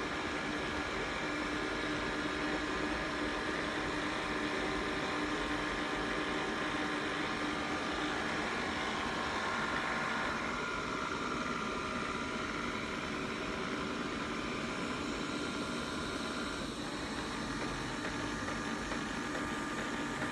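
Xiaomi robot vacuum running as it returns to its charging dock: a steady motor whir with faint whining tones. The tone shifts about halfway through and again near the end.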